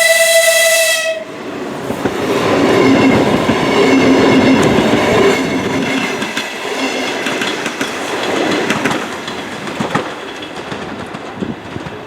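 Horn of an ES1P 'Lastochka' (Siemens Desiro RUS) electric train: one steady note that cuts off about a second in. The train then runs past at speed. Its wheels rush and click over the rail joints under a faint motor whine, loudest a few seconds in and fading toward the end.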